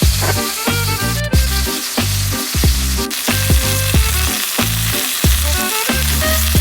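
Food sizzling as it fries in hot oil, under background music with a heavy bass line and a steady drum beat.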